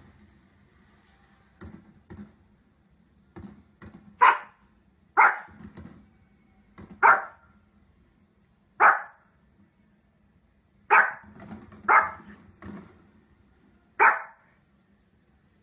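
A dog barking in single loud barks spaced one to two seconds apart, seven in all, with quieter sounds between them.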